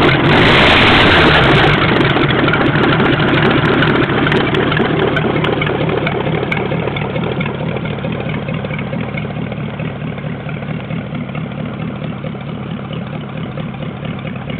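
Ford flathead V8 engine running, louder for the first couple of seconds and then gradually quieter as it settles toward a steady idle.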